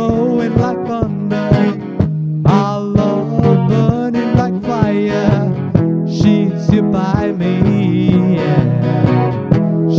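Music: an acoustic guitar strummed in a steady rhythm, with a man's voice singing over it at times.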